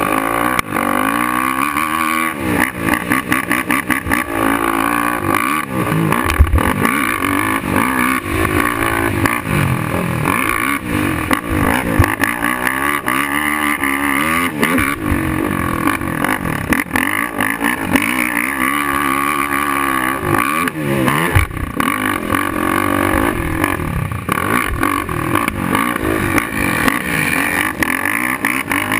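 Suzuki LTR450 quad's single-cylinder four-stroke engine being ridden hard, revving up and falling back again and again every few seconds, with short knocks throughout.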